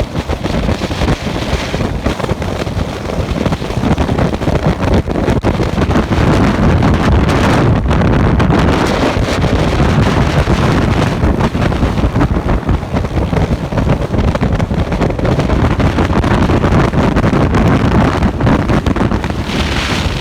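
Steady wind noise rushing over the microphone of a moving motorcycle, with the bike's engine and road noise running underneath.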